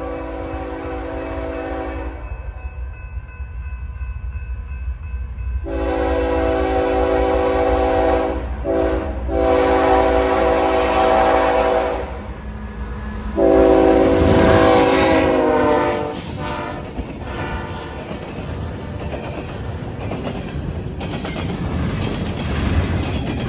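BNSF freight locomotive's multi-chime air horn blowing a series of long blasts with one short blast among them, the last blast dropping in pitch as the locomotive passes. The train then rumbles past, its wheels clicking over the rail joints.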